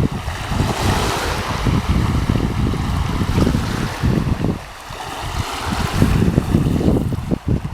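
Wind gusting against the microphone, uneven low rumbling buffets, over the steady wash of sea waves.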